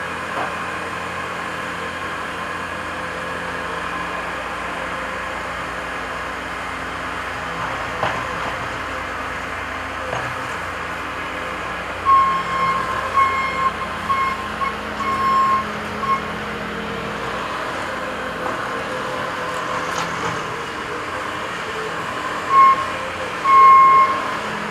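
Heavy equipment diesel engine running steadily, with a reversing alarm beeping in a short run about halfway through and twice more near the end.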